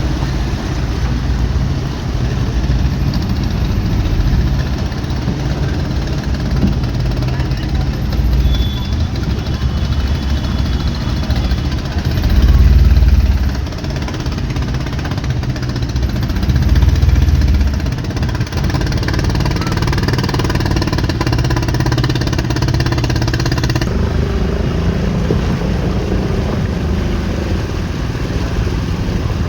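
Road traffic running with a steady low rumble, swelling louder twice near the middle.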